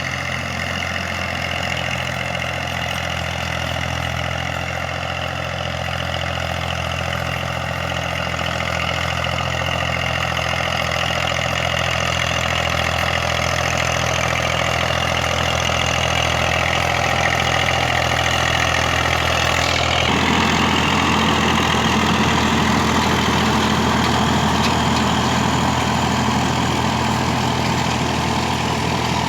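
Massey Ferguson tractor's diesel engine running steadily and growing gradually louder. About two-thirds of the way through, its sound suddenly changes and becomes fuller.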